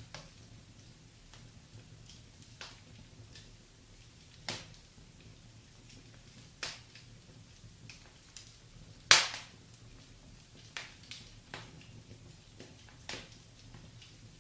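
Wood fire in a fireplace crackling: irregular sharp pops every second or two over a faint steady hiss, with one much louder pop about nine seconds in.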